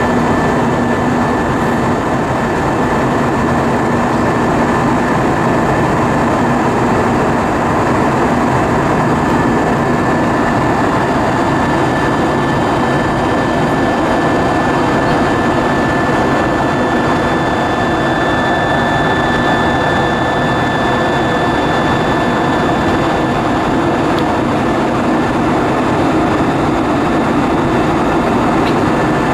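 Steady jet engine and airflow noise inside the cabin of an Airbus A320-232 airliner with IAE V2500 turbofans, with a thin high whine running through it.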